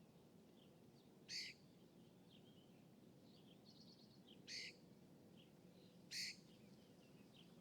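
Birds calling: three short, sharp calls, about one and a half, four and a half and six seconds in, with fainter chirps between them. A faint steady low rumble lies underneath.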